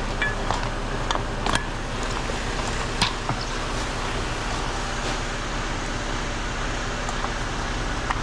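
A truck engine running steadily, with a few sharp clicks and knocks in the first three seconds.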